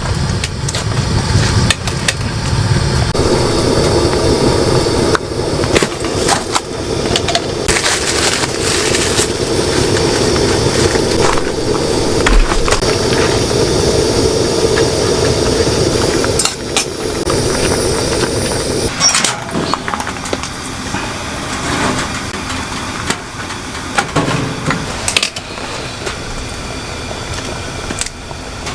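Heavy rain pouring steadily with wind, and scattered knocks and clicks throughout.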